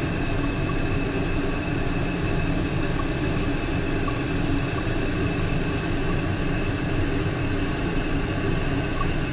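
Toilet tank refilling through a newly fitted fill valve: a steady hiss of water running into the tank, with a faint whistle-like tone held throughout.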